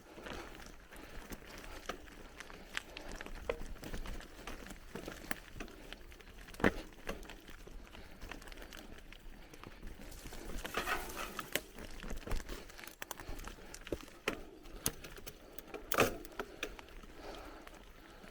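Bicycle riding along a forest trail: tyres crunching over dirt and leaves, with scattered clicks and rattles from the bike. There are two sharp knocks, about a third of the way in and near the end.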